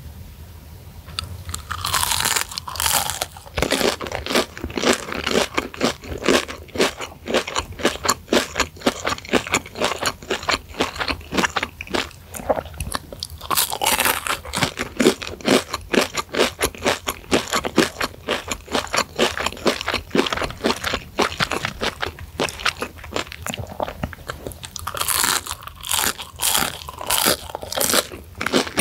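Biting into and chewing deep-fried breaded chicken sticks coated in chili flakes: a steady run of crisp crunches from the fried crust. Louder bursts of crunching come about two seconds in, around the middle, and near the end.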